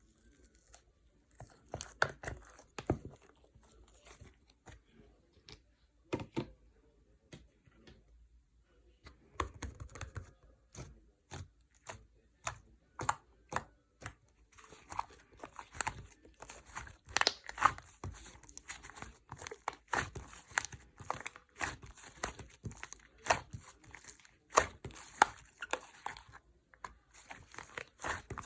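Yogurt slime being squeezed and stretched by hand, giving a string of sticky clicks and pops. They come sparsely at first, then thick and fast from about nine seconds in.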